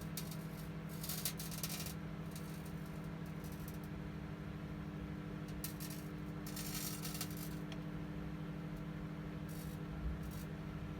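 Microwave oven running on medium high with a steady hum, with brief bursts of crackling three times as metal foil inside arcs.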